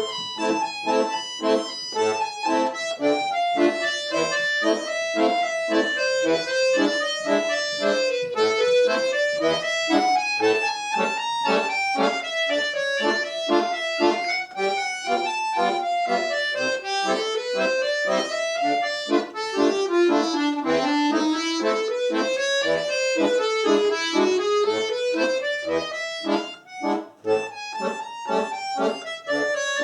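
Solo accordion playing a Russian folk arrangement: a winding melody over steady, rhythmic chord and bass accompaniment.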